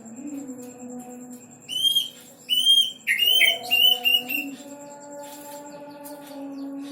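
Plaintive cuckoo (kedasih) calling. Starting about two seconds in, it gives a quick series of about six short, clear whistled notes, each rising and falling, coming closer together toward the end.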